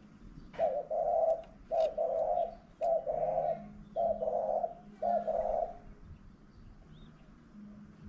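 Dove cooing: a series of five low, hollow coos, about one a second.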